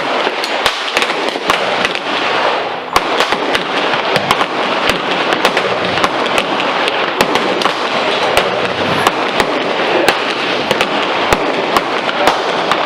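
Gunfire at a shooting range: many sharp reports at uneven spacing, several a second, over a steady rush of background noise.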